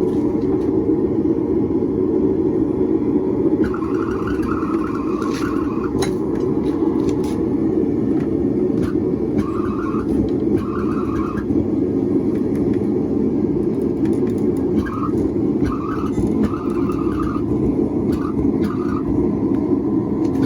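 A forge running with a steady roar while steel is heated for a stair twist. Short higher squeals come and go over it, with a few sharp clicks.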